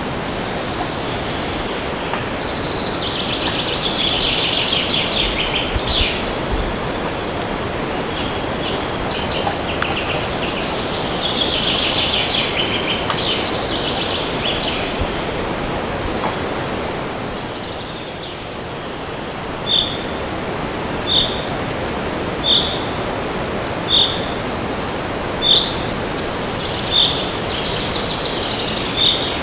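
Steady wind noise through a forest with songbirds: two bursts of trilling song, then from about two-thirds of the way through, one bird repeats a short, sharp call about every second and a half.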